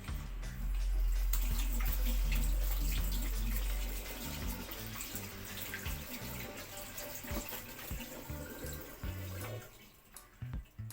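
Background music over a steady rush like running water, with a deep rumble through the first few seconds.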